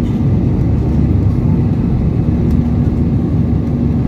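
Jet airliner cabin noise in flight: a steady, dense low roar of the engines and airflow, with a faint steady hum joining about two seconds in.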